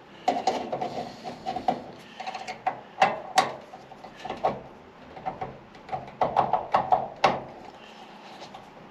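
Hand wrench working a tight reverse-threaded fitting on an aluminum reservoir: a string of sharp metallic clicks and knocks, the strongest a little after three seconds in and again after seven, as the tool slips and chews at the fitting.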